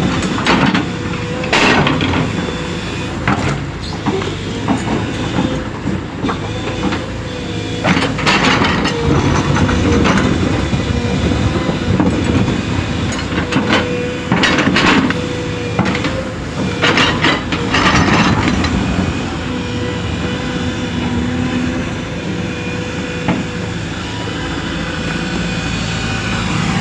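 Common-rail diesel engine running steadily with a knocking clatter, being tested after a CRDI injector repair.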